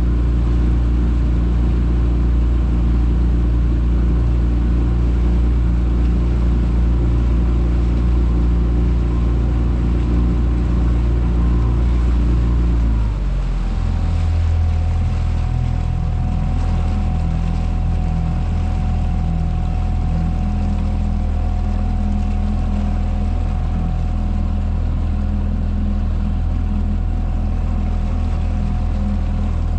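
Motorboat engine running steadily. About 13 seconds in, its note drops as it is throttled back, and it then runs on evenly at the lower speed.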